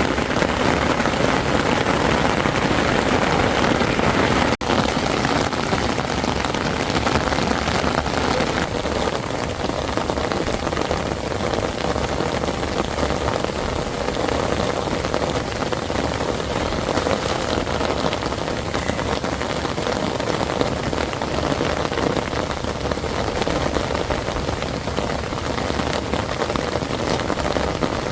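Heavy rain falling steadily, with a brief drop-out about four and a half seconds in.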